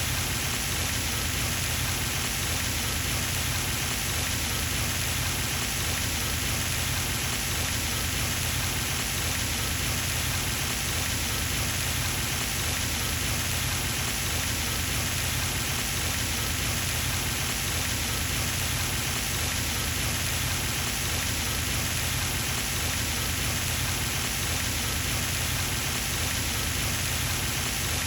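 Pond fountain spraying water and splashing back onto the pond surface: a steady, even rush with no change.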